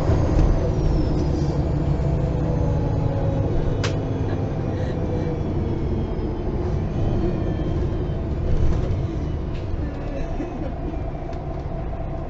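Interior sound of a MAN Lion's City G articulated city bus under way: engine and drivetrain running steadily with faint falling whines. There is a single sharp click about four seconds in.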